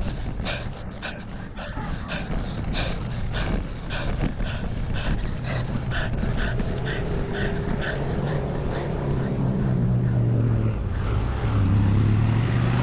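A motor vehicle's engine draws near and grows louder through the second half, running with a low, steady note. Under it, in the first half, a fast rhythmic sound pulses about three to four times a second.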